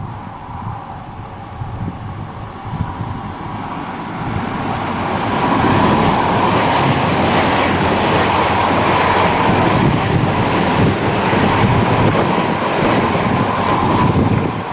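Odakyu 5000 series electric train passing through the station without stopping. The noise builds about four seconds in, stays loud for most of the rest, and drops off near the end.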